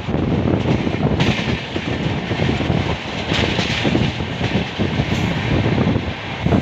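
Passenger train coach running at speed, heard from its open doorway: steady wheel-on-rail rumble and rattle, with brief stretches of hiss.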